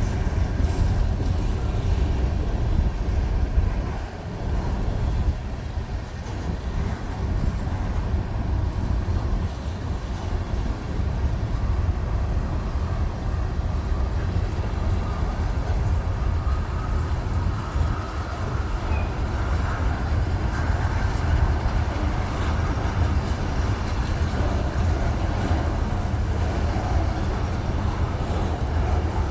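Union Pacific freight train rolling past with a steady low rumble.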